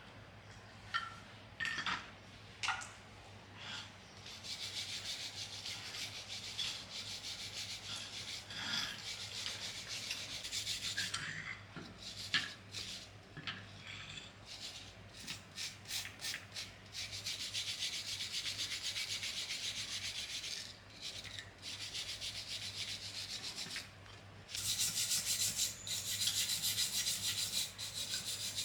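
Rapid scraping strokes of an abrasive worked back and forth over a surface, such as sanding or filing. The strokes come in runs of several seconds, broken by short pauses and a spell of separate single strokes.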